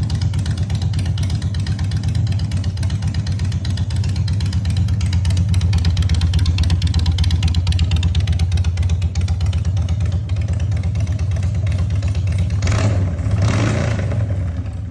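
Harley-Davidson Dyna V-twin idling through Vance & Hines Big Shots Staggered exhaust pipes, with two short throttle blips near the end.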